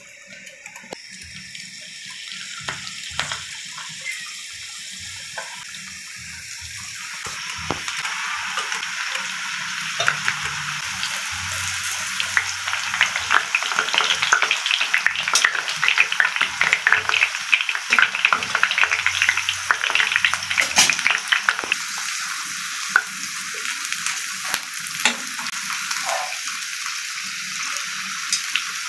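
Cooking oil poured into a nonstick frying pan, then battered kangkong (water spinach) leaves frying in the hot oil. The sizzle grows louder a quarter of the way in, full of crackling pops that are thickest in the middle, then settles into a steadier sizzle.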